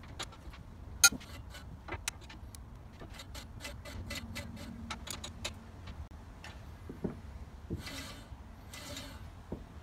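Light metallic clicks and taps from a screwdriver and spanner working the reel adjusting screws and nylock nuts on a Scott Bonnar Model 45 cylinder mower, coming faster, about four a second, midway. Two brief scraping hisses follow near the end.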